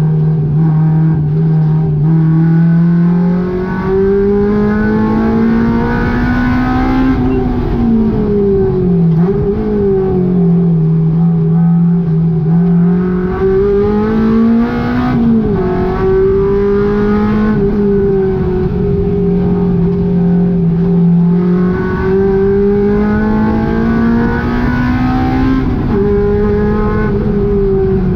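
Honda K20 inline-four engine in a Volkswagen GTI being driven hard on a race track. Its note climbs steadily in pitch under full throttle and drops sharply several times as it shifts or lifts.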